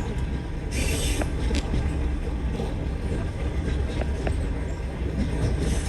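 Long-distance sleeper train running: a steady low rumble with scattered clicks and a brief hiss about a second in.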